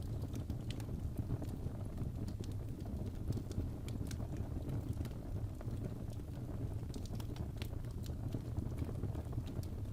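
Wood fire burning in a fireplace: a steady low rumble of flame with frequent irregular sharp crackles and pops from the burning wood.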